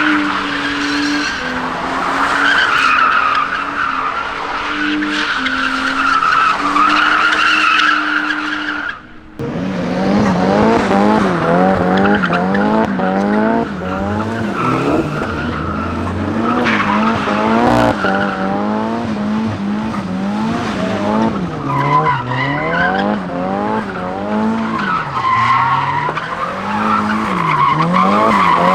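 Cars drifting: engines held high in the revs with tyres squealing, then, after a brief break about nine seconds in, an engine revving up and down repeatedly as the car slides.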